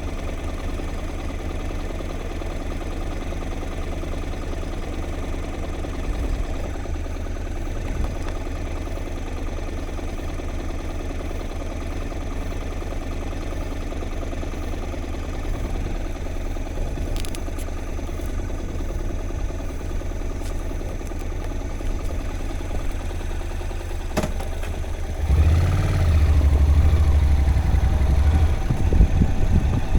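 Steady low engine rumble of a moving vehicle, which grows louder and rougher about 25 seconds in.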